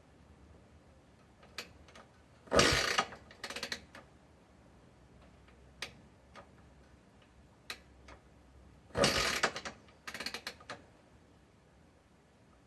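Aermacchi Ala Verde single-cylinder motorcycle engine kicked over twice on a cold start, each kick a short burst of mechanical clatter with a smaller rattle after it. The engine does not catch, and the two kicks come about six seconds apart.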